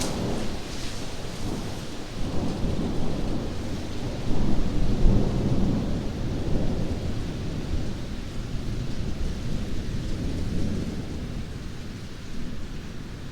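Thunderstorm: a long, deep roll of thunder that swells about four seconds in and slowly dies away, over steady rain.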